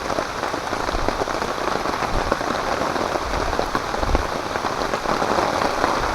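Heavy rain falling steadily, a dense hiss of countless fine drop impacts. A brief low rumble sounds about four seconds in.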